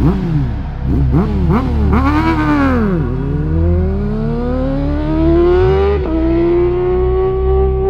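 Yamaha R1 sport motorcycle engine revved in several quick blips, then pulling up through the revs in one long rising note that steps sharply higher about six seconds in and holds high near the end.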